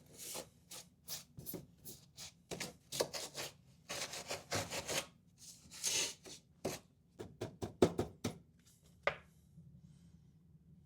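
Refrigerator coil-cleaning brush worked back and forth through dusty condenser coils: a run of short, scratchy brushing and scraping strokes, several a second, that stop about nine seconds in.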